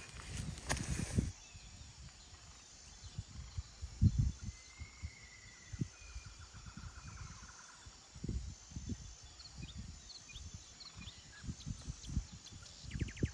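Forest ambience in strong wind: irregular low rumbles and thumps, the loudest about four seconds in, with a brief rustle just after the start. Small birds call over it, with a few high chirps in the middle and a short fast trill near the end.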